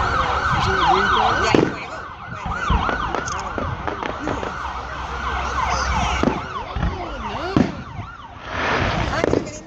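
Many whistling fireworks going off at once, a dense tangle of shrill rising and falling whistles, broken by scattered pops and low thumps.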